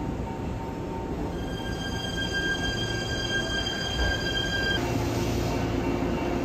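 JR electric commuter train moving along the platform track. Its steel wheels give a high, steady metallic squeal for a few seconds that cuts off suddenly, followed by a low steady hum over the rail rumble.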